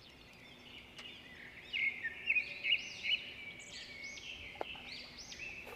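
Small birds chirping: a quick run of short, high, arching notes that starts about a second and a half in and carries on to near the end.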